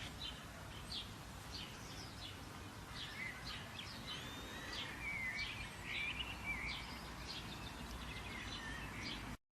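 Songbirds chirping and warbling, with many short calls and a few longer phrases clustered around the middle, over a steady low outdoor background noise.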